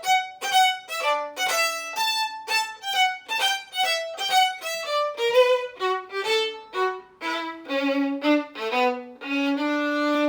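Violin played to imitate a trumpet: a bright run of short, detached notes, some with two notes sounding together, ending on a couple of longer held low notes.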